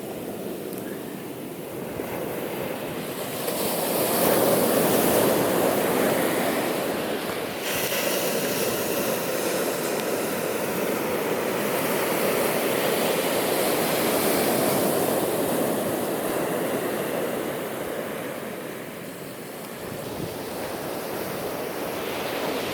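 Ocean surf: waves breaking and washing up the beach in a steady rush, swelling about four seconds in and easing for a moment near the end.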